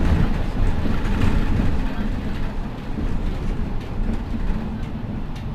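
MAN Lion's City G articulated city bus running, a steady low rumble of engine and road noise that eases a little about halfway through.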